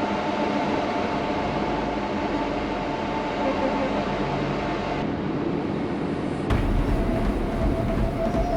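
Isuzu NPS 4x4 truck's diesel engine and drivetrain running steadily on the move, a constant drone with a steady whine in it. About six and a half seconds in, the sound changes abruptly to a heavier low rumble.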